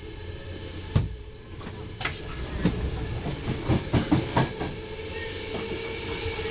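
Steady rumble of a moving passenger coach on the rails, heard from inside near the door, with a sharp clack about a second in and a run of knocks and clacks around three to four and a half seconds in.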